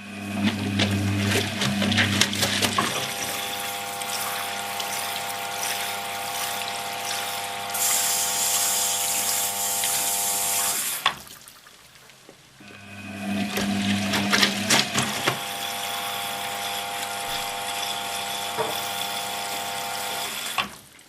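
Hoover HTC 172 washing machine in its wash cycle, its motor humming and whining as it turns the drum for about eleven seconds. The drum stops briefly, then turns again for about eight seconds. A high hiss joins in for a few seconds partway through the first turn.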